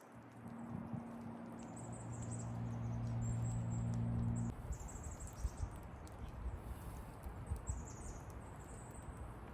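Outdoor ambience with repeated high-pitched chirps throughout. A steady low hum runs from about half a second in and cuts off suddenly about four and a half seconds in.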